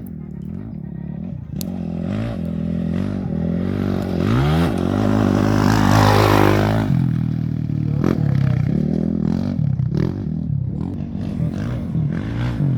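Off-road race motorcycles passing close, their engines revving up and down through the gears. The loudest pass comes about five to seven seconds in, with a rush of noise from the bike going by.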